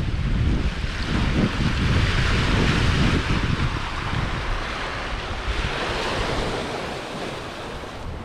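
Sea water washing and hissing past a sailing yacht under way, swelling and easing, with wind buffeting the microphone.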